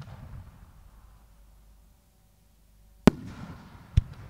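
Aerial firework shells. The echo of a bang rolls and fades, then about three seconds in come two sharp bangs about a second apart, each trailing off in an echoing rumble.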